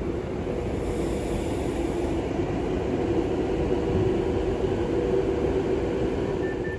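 Class 390 Pendolino electric train moving slowly at the platform, a steady electric hum over rumbling noise.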